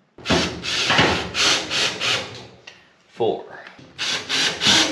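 Power drill driving screws into a dryer's back panel, in a run of short repeated bursts, then starting on the next screw near the end.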